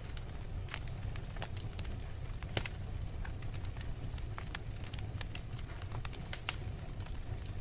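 Wood logs burning in a fireplace: a steady low rumble of the flames with scattered sharp crackles and pops, the loudest one about two and a half seconds in and a quick pair near the end.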